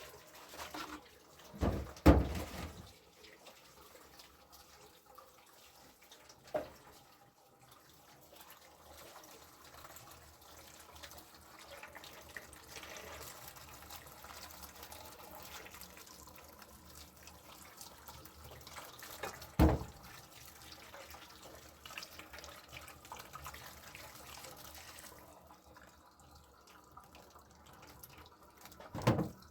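Water running and splashing, as from a tap into a basin, with a few sharp knocks of things being handled. The flow stops about 25 seconds in.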